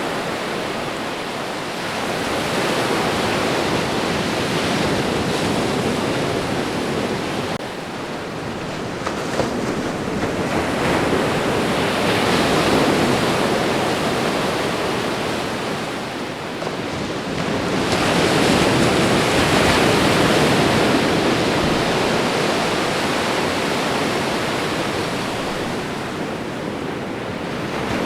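Ocean surf washing onto a shore: a continuous rush of breaking waves that swells and eases every several seconds.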